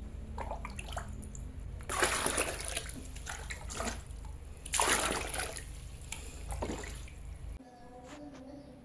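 Water splashing and pouring by hand, in two main rushes about two seconds and five seconds in, with smaller splashes between, over a steady low hum that stops near the end.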